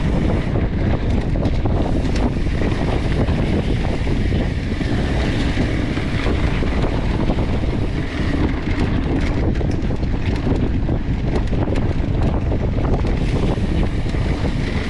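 Wind rushing over the action-camera microphone while a mountain bike is ridden on a dirt trail, with steady tyre noise and small, frequent knocks from the bike jolting over the rough ground.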